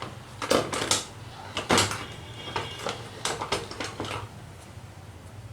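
A string of short plastic clicks and knocks from working on a Dell Inspiron 15-3000 laptop's case as its keyboard is about to be pried out, over a steady low hum.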